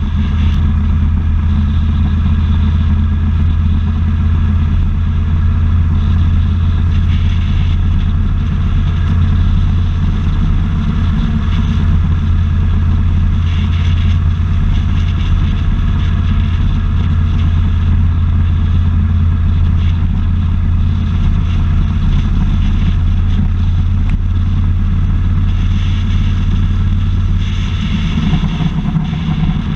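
Motorcycle engine running steadily at cruising speed while riding, with a low drone and road rush. The engine note changes briefly near the end.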